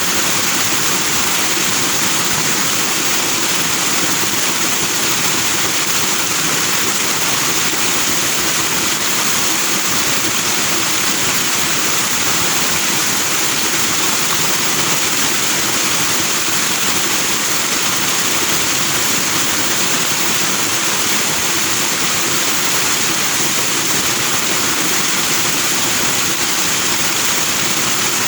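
Forest stream flowing over rocks in white foam, a steady, even rushing of water without breaks.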